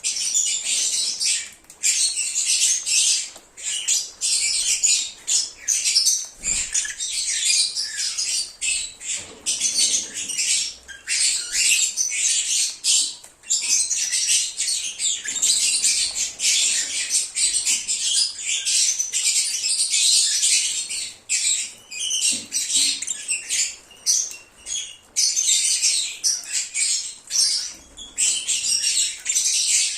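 Lovebirds (agapornis) chattering and chirping, a dense run of shrill high-pitched calls and squawks with only short pauses.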